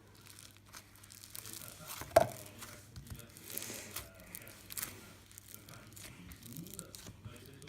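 Slime being kneaded and squished by hand, giving irregular crackling, crinkly sounds, with one sharp pop a little over two seconds in.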